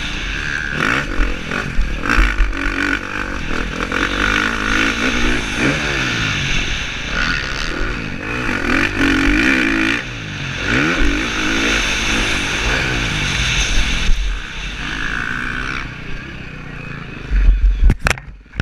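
KTM 350 SX-F four-stroke single-cylinder motocross engine revving up and down again and again as the bike rides, with wind noise on the helmet-mounted microphone. A few loud knocks come near the end.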